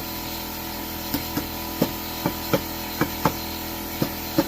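Light, irregular knocks and clicks of wooden pieces being handled, about ten in a row, over a steady background hum.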